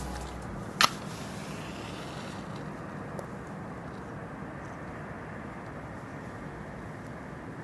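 Wood fire burning with a steady low rush and one sharp pop about a second in, then a fainter crackle a couple of seconds later.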